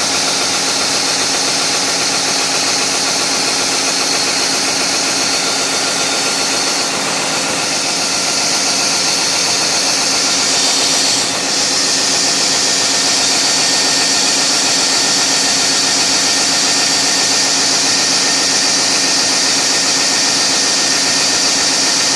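Large diesel engine running steadily at a constant speed: a loud, continuous engine-room noise with a high hiss over a mechanical hum.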